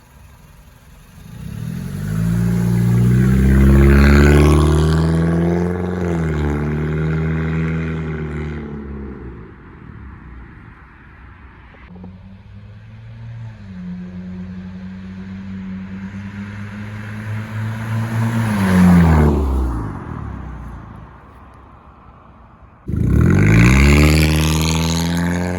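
Honda Civic with its muffler and resonator deleted, the exhaust note rising loud as the car accelerates and then dropping in pitch as it goes by, three times over; the third pass starts abruptly.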